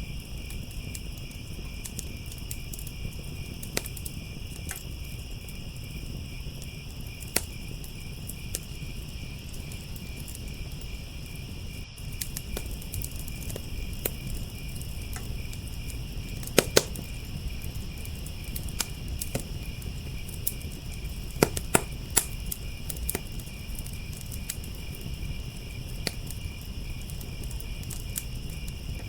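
Wood fire crackling with scattered sharp pops, the loudest a few about two-thirds of the way through, over a steady chorus of crickets chirping.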